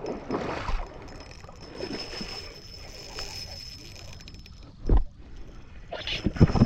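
Shallow water sloshing and splashing around wading legs, with one low thump about five seconds in and a faint, steady high-pitched whine behind it.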